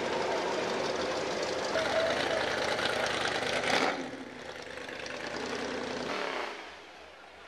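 Engines of show cars cruising slowly past at low speed, first a pickup truck, then a second car. The first stops abruptly about four seconds in. The second runs for about two more seconds, then the sound falls away to a quieter background.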